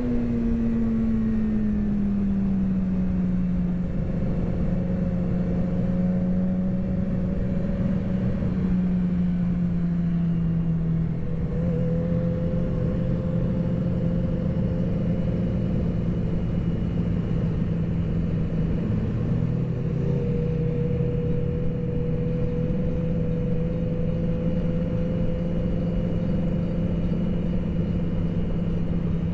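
Sport motorcycle engine running at low, steady revs, its pitch easing down over the first few seconds and then holding nearly level, over a constant rush of wind and road noise.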